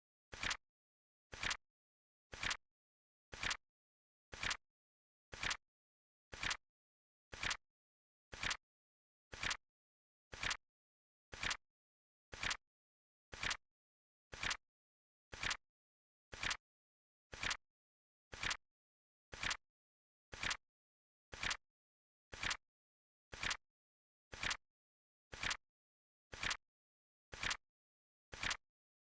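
Flip clock sound effect: a short, sharp flap click once a second, evenly paced, as the countdown flips through the seconds.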